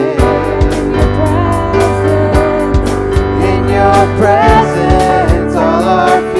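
Worship song played by a band: a steady drum beat with kick drum, sustained bass and a singing voice carrying the melody.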